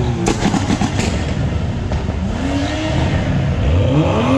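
BMW car engines revving hard, the pitch rising and falling, with a quick run of sharp exhaust pops in the first second.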